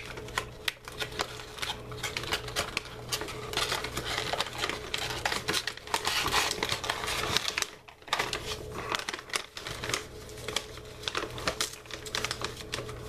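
Crisp, thin mint cookie being chewed close to the microphone: a dense, irregular run of crunching clicks, with a short lull about eight seconds in.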